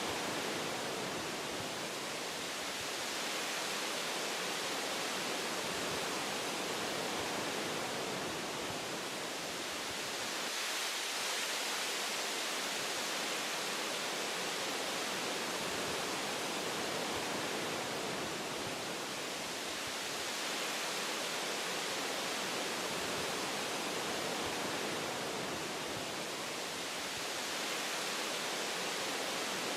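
Wind blowing through forest tree branches: a steady rushing hiss that swells and eases slowly, strongest about ten to thirteen seconds in.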